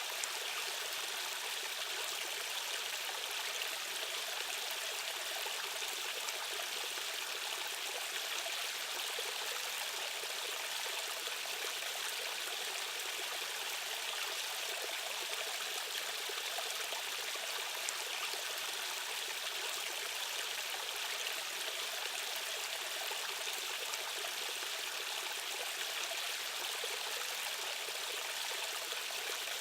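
A stream of fast-running water rushing and splashing steadily over a small waterfall, an even hiss with no lulls.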